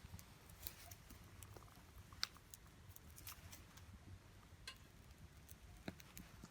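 Small wood fire in a compact tabletop fire stand, crackling faintly with scattered, irregular pops and one sharper snap a little past two seconds, over a low steady rumble.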